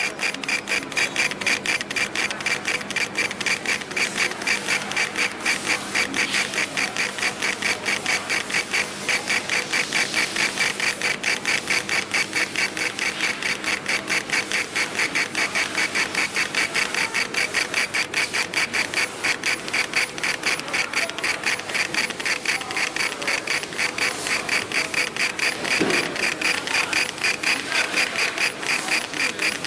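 60 W CO2 laser engraver raster-engraving glass: the stepper-driven laser head runs back and forth in quick even passes, making a steady mechanical rhythm of several strokes a second.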